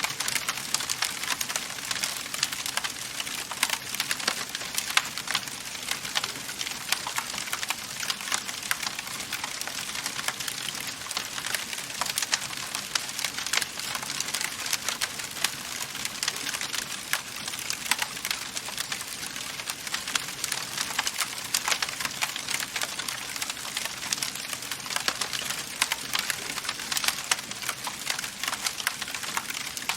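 Wood fire crackling in a fireplace: a dense, irregular patter of sharp pops and snaps over a steady hiss.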